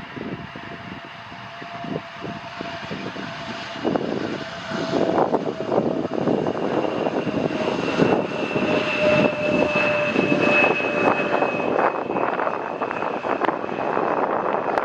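Jet airliner passing close on its landing approach: a steady engine whine that slowly falls in pitch over a rough rumble, growing louder about four seconds in.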